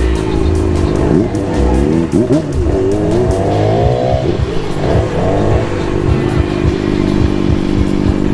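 Motorcycle engines running, their pitch rising and falling with the revs for a few seconds before settling to a steadier note, with music playing alongside.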